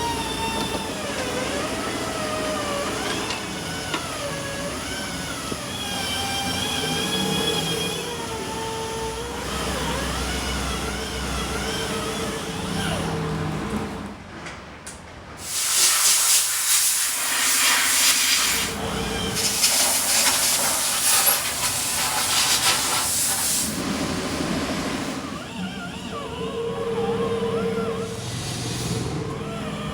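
Two loud bursts of hissing, each a few seconds long, about halfway through, over a quieter wavering pitched sound.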